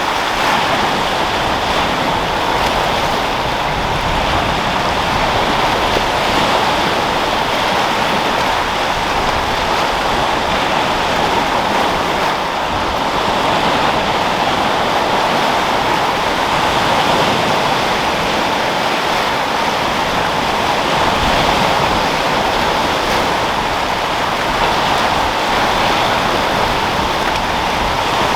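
Sea waves rolling and breaking in a continuous wash of surf, with wind. It rises and falls only slightly in loudness.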